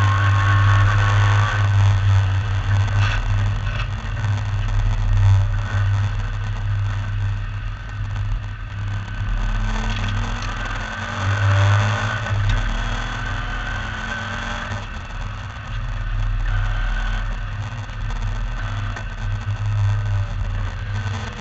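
MGB V8 race car's V8 engine heard from on board at racing speed, its pitch rising and falling with the revs, over a heavy low rumble.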